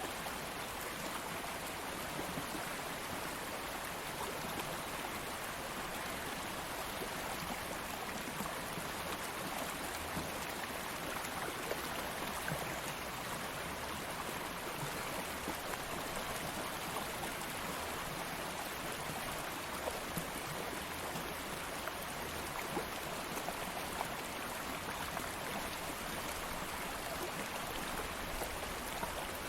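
Stream of flowing water running steadily, a constant wash with small splashes and trickles.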